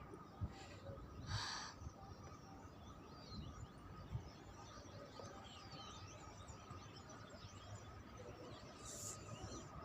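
A flock of small birds chirping and twittering faintly, with many short calls overlapping, more of them from about two and a half seconds in. A brief breathy noise close to the microphone about a second and a half in, and low handling bumps.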